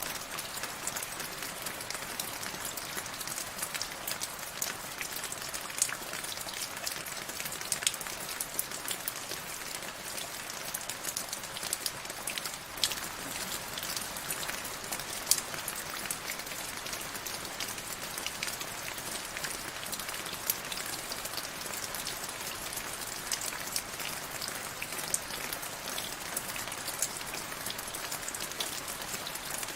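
Steady rain falling, with a dense patter of individual drops, a few of them sharper and louder.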